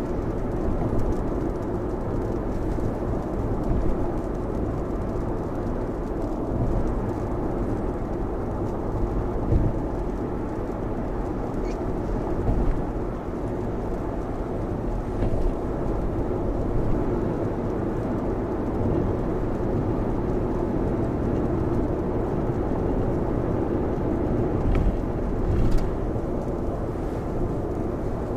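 Steady in-cabin road and rain noise of a Lexus RX driving at speed on a rain-soaked expressway, tyres running through water in a dense, low hiss. A few brief knocks come at irregular moments.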